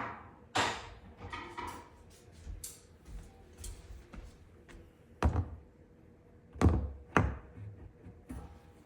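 Parts of a two-tier dish drying rack knocking and clicking together as it is put together by hand: scattered light taps, then three louder thunks, the last two in quick succession.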